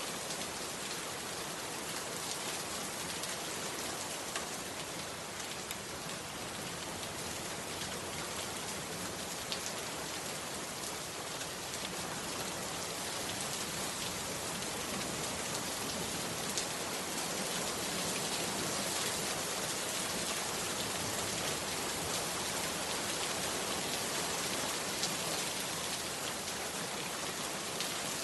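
Heavy rain pouring steadily, a dense hiss with scattered sharper drop impacts, growing slightly heavier in the second half.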